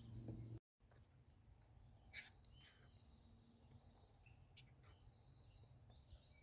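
Near silence with faint bird chirps: a short high chirp about a second in, and a quick run of repeated high notes near the end.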